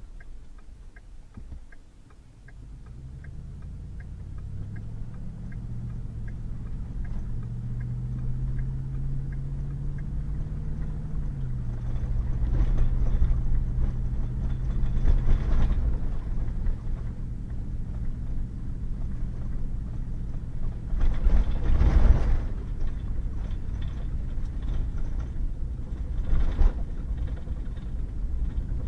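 Pickup truck pulling away: the engine's pitch climbs for several seconds, drops at an upshift about eleven seconds in, then holds steady, with tyre and road noise swelling in two louder stretches. A light regular ticking, about two a second, sounds at the start.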